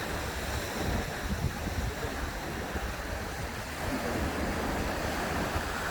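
Sea waves washing onto the shore in a steady wash that swells toward the end, with wind buffeting the microphone in low gusts.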